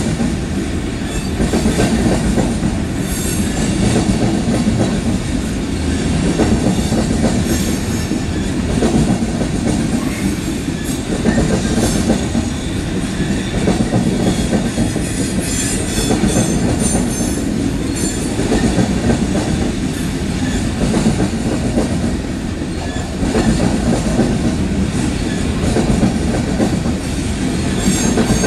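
Coal train's open-top coal cars rolling past on steel wheels: a steady heavy rumble with clickety-clack over the rail joints, swelling and fading about every two seconds as the cars go by. Brief high squeals from the wheels come and go, most around the middle.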